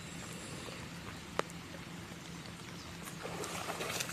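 Rain falling steadily on water, with one sharp tick about a second and a half in; a louder, crackling patter starts near the end.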